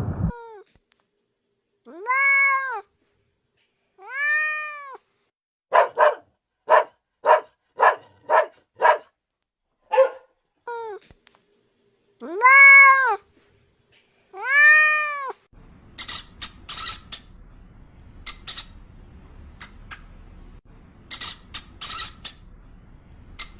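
A cat meowing: four long rising-and-falling meows, with a quick series of about seven short mews between them. About two-thirds of the way through, a different recording with background hiss takes over, carrying short, sharp, high-pitched calls.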